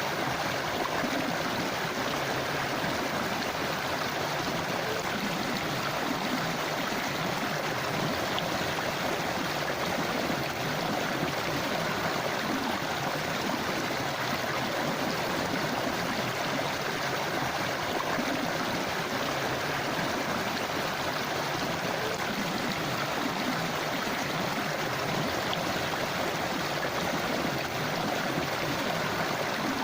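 A river or forest stream flowing steadily over rocks, a constant rushing and gurgling of water.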